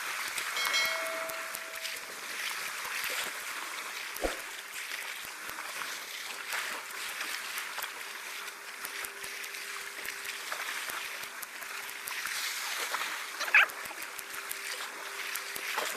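Sea water washing and splashing around shoreline rocks, with a faint steady hum joining about five seconds in and a sharp knock or slap about thirteen seconds in.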